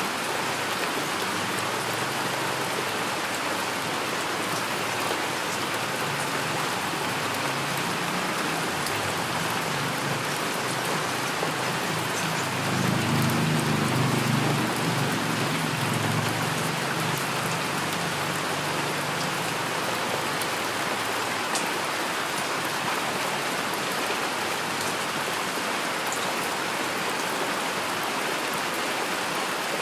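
Steady heavy rainfall, with a low rumble of thunder swelling for a few seconds about halfway through.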